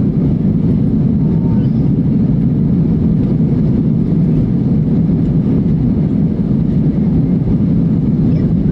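Airliner cabin noise during takeoff: a steady, loud low rumble of jet engines and airflow heard from inside the cabin.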